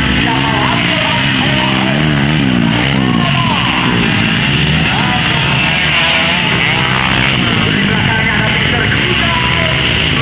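Motocross bike engines revving, their pitch rising and falling again and again, mixed with loud music.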